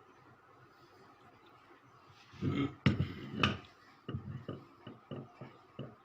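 Tools and metal motor parts being handled: a clatter with two sharp clicks about two and a half seconds in, then a string of about six short knocks.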